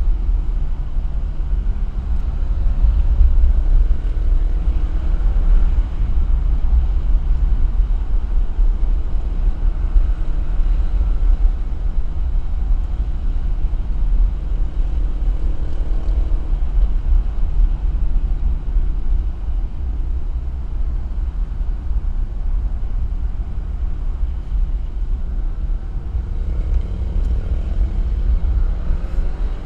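Alfa Romeo car driving at speed on a winding road: its engine note rises and falls repeatedly over a heavy, steady low rumble of road and wind noise.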